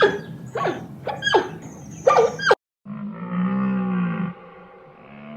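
Animal calls: four short cries, each falling steeply in pitch, about half a second apart. After an abrupt cut, a long, low, drawn-out call from a different animal follows, and another begins near the end.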